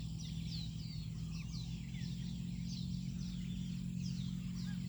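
Birds chirping outdoors, a busy run of short, quick, high falling notes several times a second, over a steady low hum.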